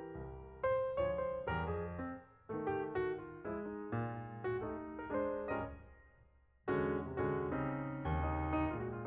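Background piano music: a slow sequence of sustained notes and chords, with a brief pause about six and a half seconds in before the playing resumes.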